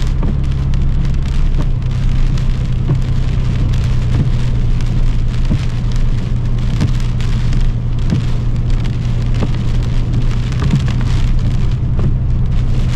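Heavy rain hitting a car's roof and windshield, heard from inside the moving car, over a steady low drone of engine and road noise.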